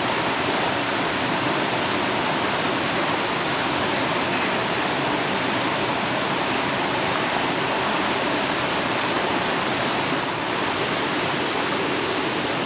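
Steady, even rush of flowing water from a river or waterfall.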